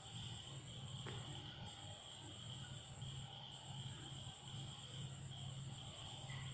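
Faint, steady chirring of insects with a low, uneven hum underneath.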